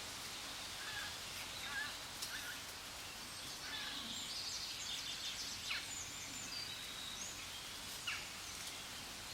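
Outdoor background hiss with scattered faint, short bird chirps and a couple of brief soft clicks.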